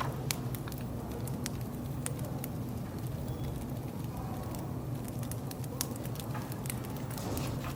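Wood fire crackling: scattered sharp pops and snaps over a steady low background hum.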